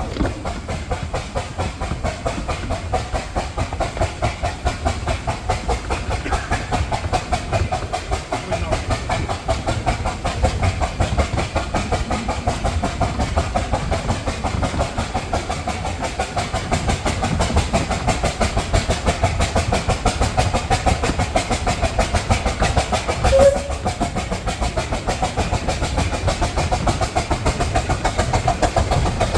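A 15-inch gauge miniature steam train running, with a steady, rapid rhythmic beat that carries through the whole stretch. One short, sharp note cuts in about three-quarters of the way through.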